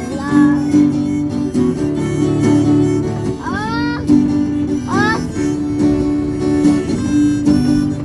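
Acoustic guitar strumming chords in an instrumental gap of a song, with a couple of short sliding voice-like notes about halfway through.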